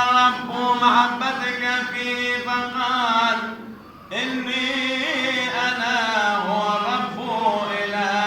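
A single voice chanting Coptic liturgical chant in long, drawn-out melismatic notes that bend slowly in pitch. It breaks off for a breath about three and a half seconds in, then carries on.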